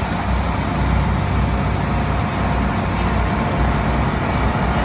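Tractor engines running steadily, a continuous low hum.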